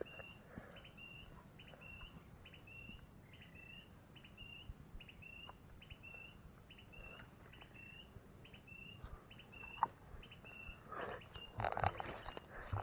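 A bird calling one short, sharp chirp over and over at an even pace, a little under twice a second, until about two seconds before the end. Near the end, rustling and footsteps through undergrowth take over.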